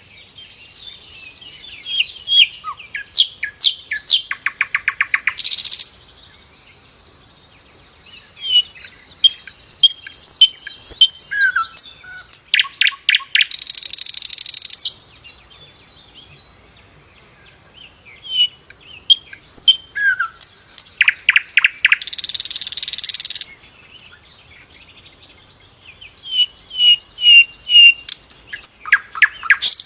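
Sikatan londo flycatcher singing: four song phrases spaced a few seconds apart, each a run of high whistled notes and fast trills that ends in a harsh buzzy rasp.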